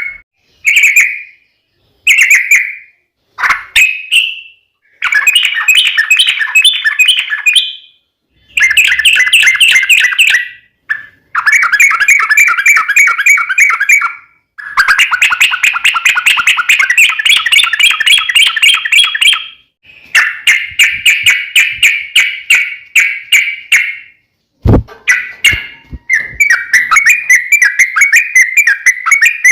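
Yellow-vented bulbul singing long, rapid chattering phrases of quickly repeated notes, each phrase lasting one to five seconds with short pauses between. A single sharp knock sounds late on.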